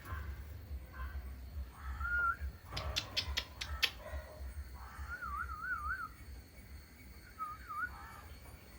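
Male cockatiel whistling: a short rising whistle, then a wavering warbled whistle about five seconds in and a short wavy one near the end. A quick run of sharp clicks comes about three seconds in, with a low rumble underneath.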